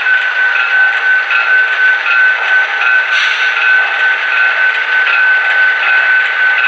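Model train running on the layout: a steady high whine with a light, regular beat repeating a little under twice a second, and a brief hiss about three seconds in.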